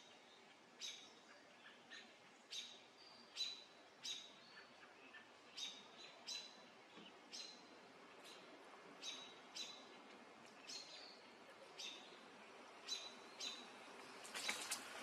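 Bald eagle calling faintly in a long series of short, high chirps, about one a second, sometimes in pairs. A louder rush of noise comes in near the end.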